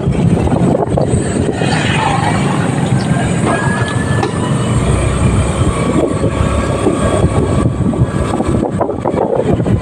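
Motorcycle riding noise: wind buffeting the microphone over engine and road rumble, with faint high tones drifting in partway through.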